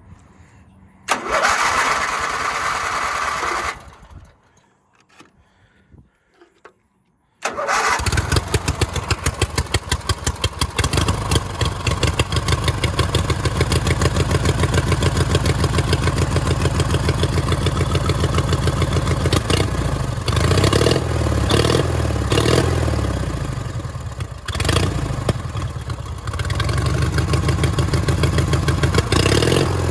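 Freshly rebuilt Murray 18 hp riding-mower engine being started for the first time: the starter cranks for about three seconds without the engine catching, and after a pause of a few seconds the engine starts and keeps running with an even beat. Its speed rises and falls several times in the second half.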